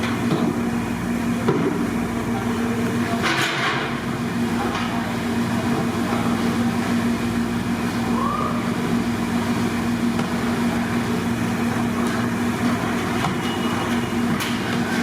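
Steady rushing cooking noise with a constant low drone, broken by a brief clatter about three seconds in and a short click near the end.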